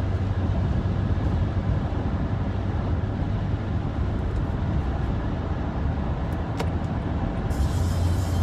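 Steady in-car driving noise: a low engine and road rumble, with a few faint ticks about two-thirds of the way through.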